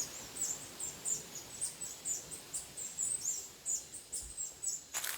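Rainforest background of rapid, high-pitched chirps repeating several times a second, with a short rustle near the end.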